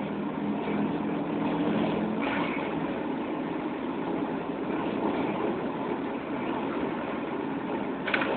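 Audi S2's turbocharged 2.2-litre inline-five engine running on the road, heard from inside the cabin. A steady engine note turns rougher and noisier about two seconds in, and there are a few sharp clicks near the end.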